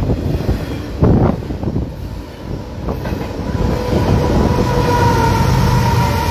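Double-stack container cars of a freight train rolling past close by, wheels thumping over the rails a couple of times. About four seconds in, a BNSF diesel locomotive comes by and it gets louder, with a low engine hum and a steady whine.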